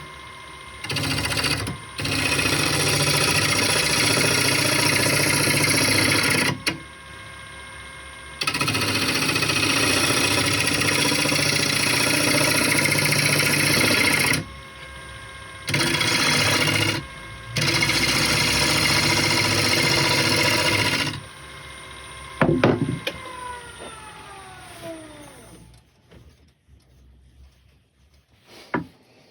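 Power tool working wood in loud bursts of one to six seconds with short breaks. About 22 seconds in the motor is switched off and winds down with a falling whine.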